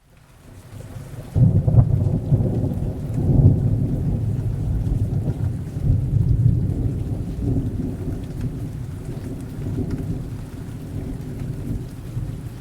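A thunderclap breaks about a second and a half in as a loud low rumble, rolling and slowly fading, over steady rain.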